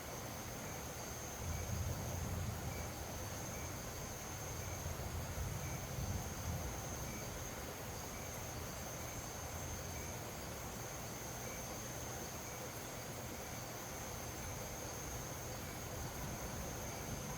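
Insects shrilling in one steady high-pitched tone, with low wind rumble in gusts from about 1.5 to 7 seconds in.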